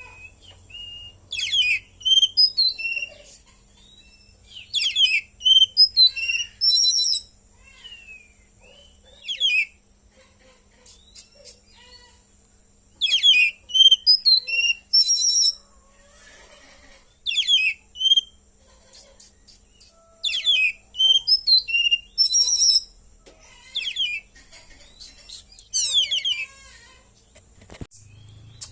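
Oriental magpie-robin (kacer) singing in bursts of a few seconds: quick, varied whistles and chirps with short pauses between, its song full of phrases copied from the cililin.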